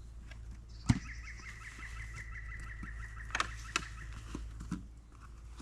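A bird calls with a rapid run of pulsed notes lasting about two seconds, mixed with a few sharp knocks and clicks, the loudest one about a second in.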